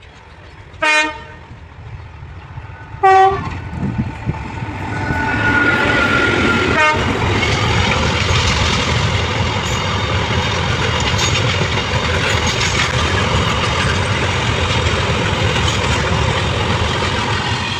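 A train horn gives two short blasts about two seconds apart. Then a freight train of open wagons, hauled by an electric locomotive, passes close by with a loud, steady rumble of wheels on the rails.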